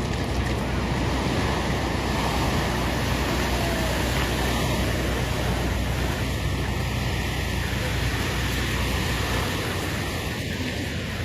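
Steady rushing of wind and water, like surf, with a deep low rumble underneath that eases near the end.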